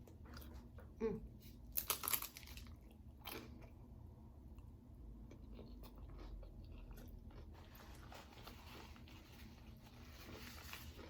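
A person chewing food close to the microphone, with a few sharp crunchy bites in the first few seconds, the loudest about two seconds in, then quieter chewing.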